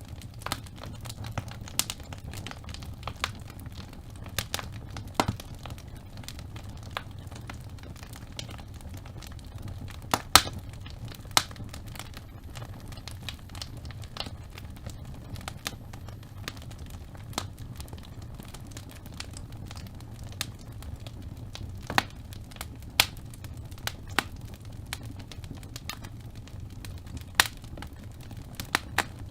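Birch logs burning in a fireplace, crackling steadily over a low rumble of the flames, with a handful of louder sharp pops scattered through.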